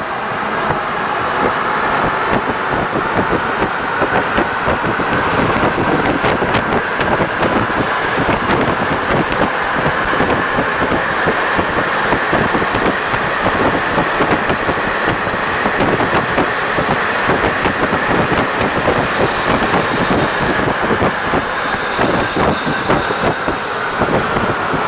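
Santiago Metro NS-74 rubber-tyred train running along the line, a steady noisy rumble and rattle, with a whine that climbs in pitch as the train gathers speed over about the first half and then holds steady, easing down slightly near the end.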